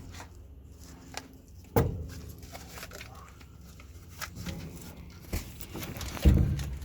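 Metal knocks and clunks of a starter motor being worked back into place on a truck engine, with two louder knocks, one about two seconds in and one near the end, and smaller clicks between.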